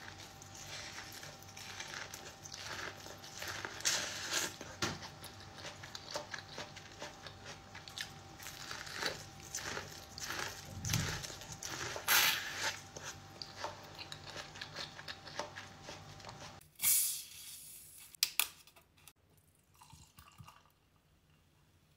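Close-up biting and chewing of sweet corn on the cob, kernels crunching and popping in quick irregular bites. Near the end it stops abruptly and gives way to a short rushing noise and a few clicks.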